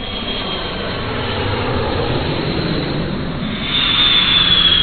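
Airliner engine noise, a steady rush. About three and a half seconds in, a high engine whine comes in and the sound gets louder, the whine sliding slowly down in pitch.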